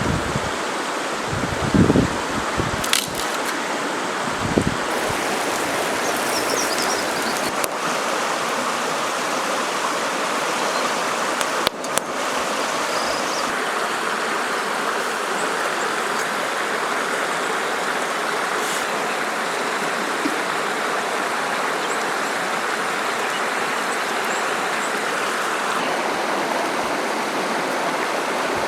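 A river flowing with a steady rushing sound, with a few dull thumps in the first five seconds and a single sharp click about twelve seconds in.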